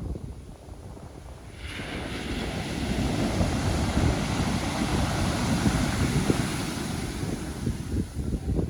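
Pacific Ocean surf: a wave breaks about two seconds in and its wash carries on through most of the clip, easing near the end. Wind rumbles on the microphone throughout.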